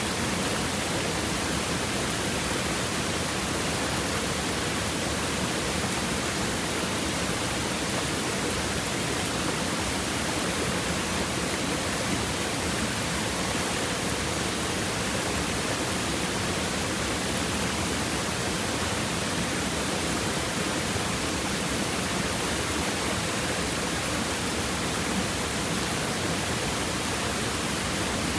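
Stream water flowing and babbling over rocks: a steady, unbroken rush.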